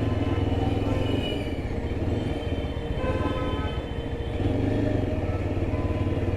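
Yezdi Adventure's single-cylinder engine running steadily while the motorcycle is ridden, with a slight easing in level around the middle.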